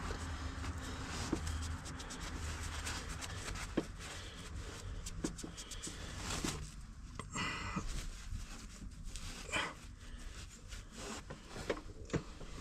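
Hands working under the hood: scattered small clicks and knocks of parts and tools, with a few brief rustles, over a low hum that fades out about two seconds in.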